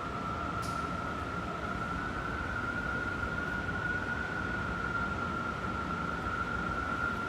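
Strong wind howling: a steady high whistling tone that creeps slightly up in pitch over a broad rushing noise.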